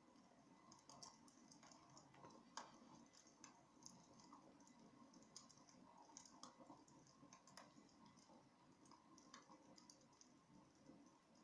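Faint wood fire burning in a fireplace: irregular crackles and small pops over a low, steady hiss, with one sharper pop about two and a half seconds in.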